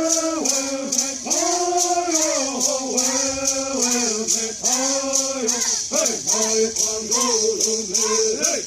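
A Kumeyaay bird song: male voices singing held, wavering notes over a steady beat of shaken gourd rattles.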